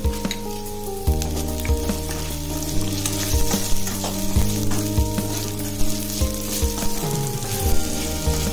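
Diced potatoes and green chillies sizzling in hot oil in a non-stick pan, with a spatula clicking and scraping as they are stirred. Background music plays underneath.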